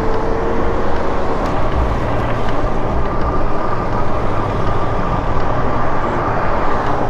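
Wind rushing over the microphone of a rider on a moving e-bike, a steady loud noise with a faint constant whine underneath.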